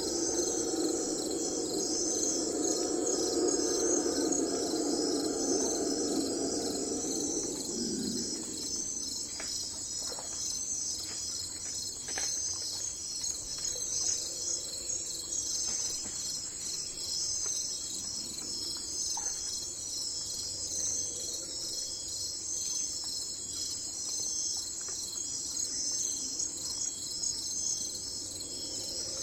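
Crickets chirping in a steady high, pulsing chorus. A lower drone underneath fades out about eight seconds in, and a few faint clicks follow.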